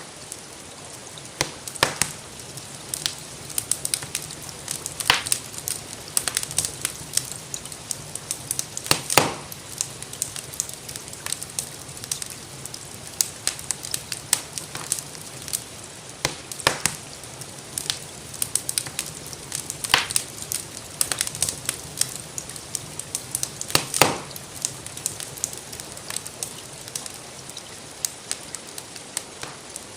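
Wood fire crackling in a fireplace: a dense run of small irregular pops over a steady soft hiss, with a few louder snaps every few seconds.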